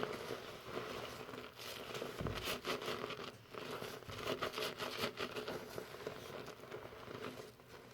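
Fingers working lather through hair during a shampoo, giving a quick, crackly rustling of foam and wet hair with a livelier patch a couple of seconds in.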